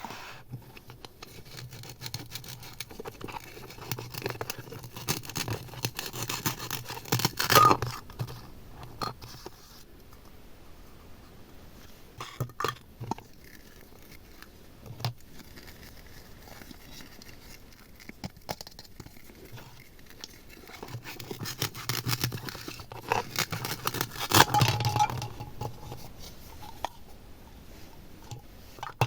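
Slime being worked by hand, with sticky crackles, clicks and squelching scrapes. It comes in two busy stretches, a few seconds in and again about two-thirds of the way through, with quieter handling between.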